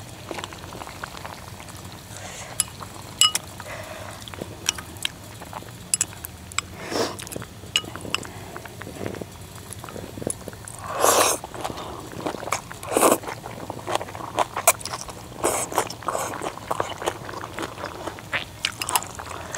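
A person eating from a hotpot: chewing and biting, with chopsticks or a spoon clinking against a bowl in scattered short clicks, and a few louder noisy bursts a little past halfway.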